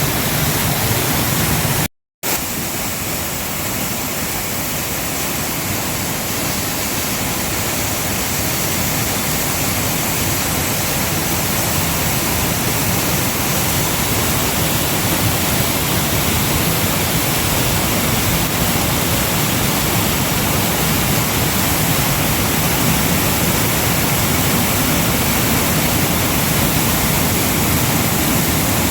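Waterfall rushing: a steady, loud wash of falling water. The sound cuts out for a moment about two seconds in, then resumes unchanged.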